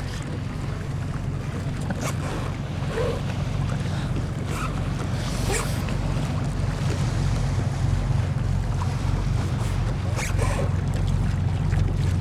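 Wind rumbling on the microphone on a kayak at sea, with a few short splashes of water against the hull now and then.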